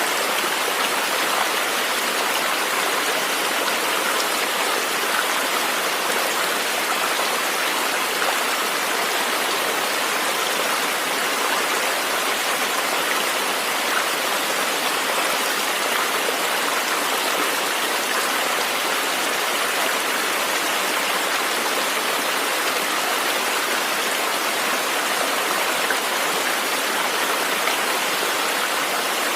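River water flowing over rocks: a steady, even rush with no change.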